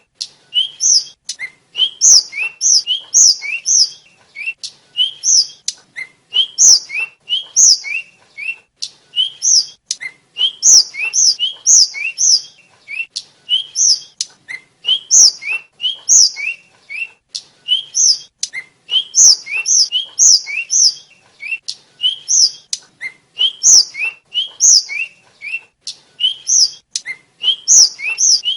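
A tledekan (sikatan flycatcher) singing in fast runs of short, rising whistled notes, high and low notes alternating, with scattered sharp clicks among them.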